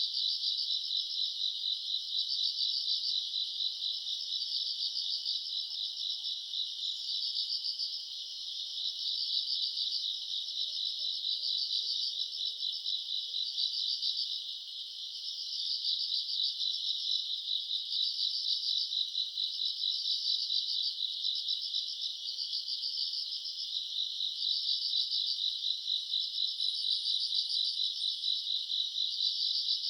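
Night chorus of crickets and other grass insects, a dense, continuous high trilling made of rapid chirp pulses, with a brief lull about halfway through.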